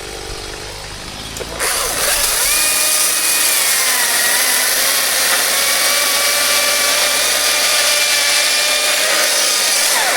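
Gas chainsaw quieter at first, then throttled up sharply about a second and a half in and held at high revs.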